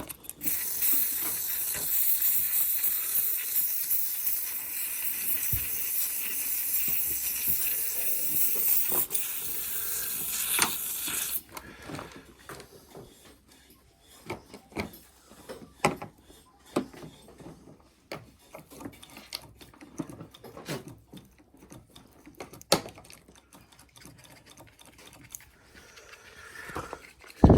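Aerosol can of Lanox spray hissing steadily for about eleven seconds as it is sprayed onto a throttle cable seized by water and corrosion. It cuts off suddenly, and scattered clicks and knocks of handling follow.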